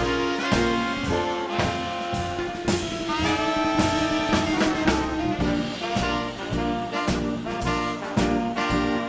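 Swing band instrumental: saxophone, trumpet and trombone play over a steady beat, with a long held horn note in the middle.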